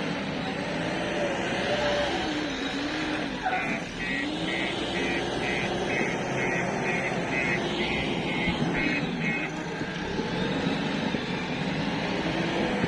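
Diesel engines of tractors and a backhoe loader running, their pitch rising and falling as they rev up and ease off. In the middle comes a run of about a dozen short, quick, high beeps, a little over two a second.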